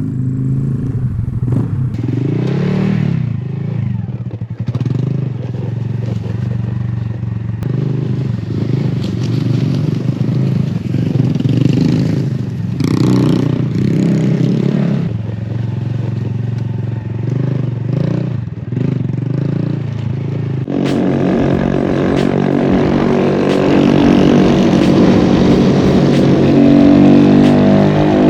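Honda Grom's small single-cylinder engine revving up and down unevenly under load, with clattering and scraping over rough ground. About two-thirds of the way through, a steadier engine note takes over and climbs in pitch as it accelerates.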